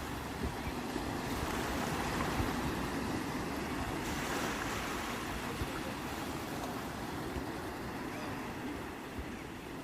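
Sea waves washing on the shore, a continuous surf wash that swells gently and eases off, with some wind rumble on the microphone.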